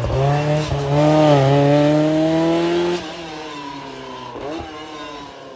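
Rally car engine at full throttle, its pitch climbing steadily for about three seconds, then cutting off suddenly and falling away, with one more short rev near the end.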